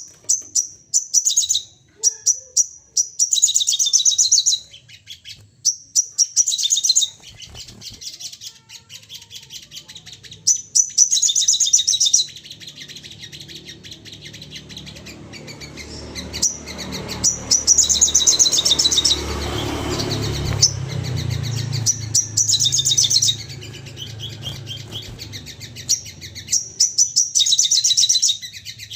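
Sogon song: repeated bursts of fast, high chirping trills, each lasting a second or so, with short gaps between them. A low rumble runs under the song through the middle of the stretch.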